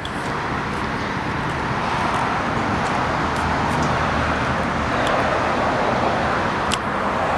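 Steady road traffic noise from passing vehicles, an even rush with a low rumble beneath that swells a little about five seconds in.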